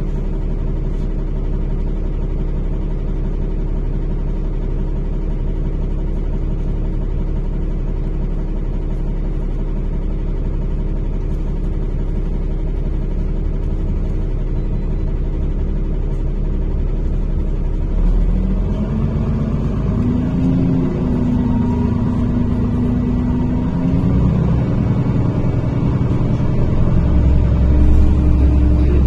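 NefAZ-5299 city bus engine and drivetrain, heard from inside the cabin: a steady low drone, then from about 18 seconds in the pitch rises and the rumble grows louder as the bus accelerates.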